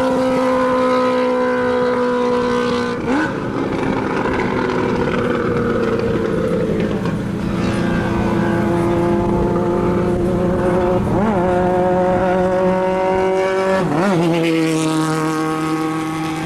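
Open-wheel race car engines running hard at high revs. The engine note holds steady, then drops in pitch with a quick up-and-down flick about three seconds in and twice more near the end, like downshifts with throttle blips into corners.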